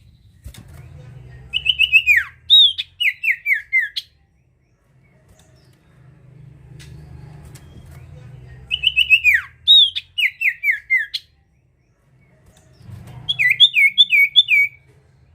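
A sirtu songbird singing three phrases of clear, quick whistled notes, each a run of short downward-sliding notes, the last phrase a faster rapid trill-like series. A faint low rumble sits underneath.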